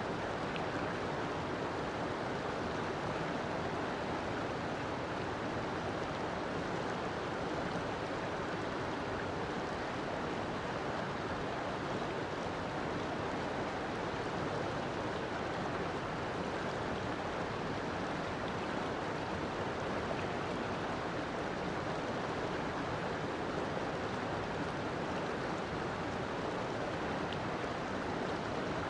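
River water flowing steadily, an even rushing that does not change.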